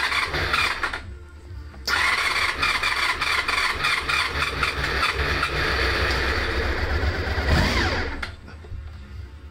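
Honda RVF400R NC35's 400 cc V4 being cranked on the electric starter in two tries: a short burst, then a longer run of about six seconds that winds down near the end. It is a difficult start on an engine that has stood unused for ten years.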